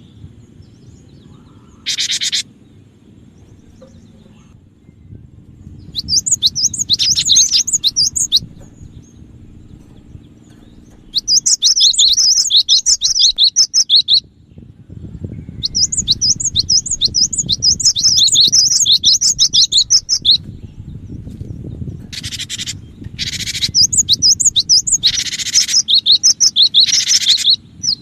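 Cinereous tit (gelatik batu) singing: several bouts of a few seconds each of rapid repeated high chirping notes, with short harsh rasping calls in between. A faint low rumble sits underneath.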